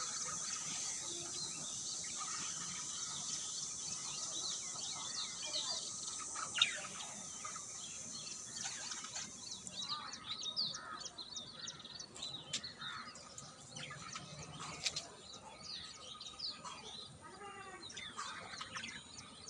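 A colony of small cage birds chirping together, many short overlapping calls throughout. A steady high hiss underneath stops about halfway through.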